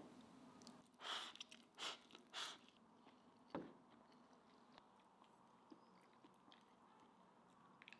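Quiet mouth sounds of eating rice and tender Er'Cai mustard greens: three short crunchy chews about a second in, then a single light knock a couple of seconds later.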